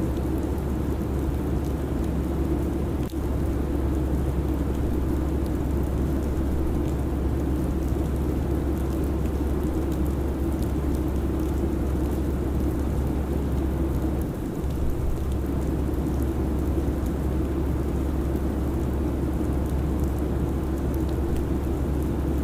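Steady jet airliner cabin noise in cruise: an even, unbroken rumble of engines and airflow, heaviest in the low end.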